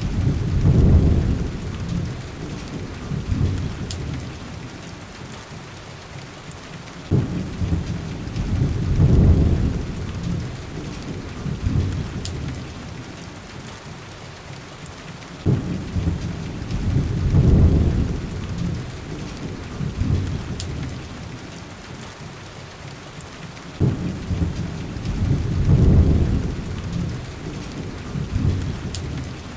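Heavy rain falling steadily, with a low rumble of thunder that swells and fades about every eight seconds, evenly spaced, four times in all. A few faint sharp clicks come through the rain.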